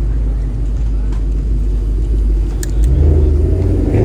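Car engine running with a steady low rumble that picks up and gets louder about three seconds in. Two brief sharp clicks come just before the rise.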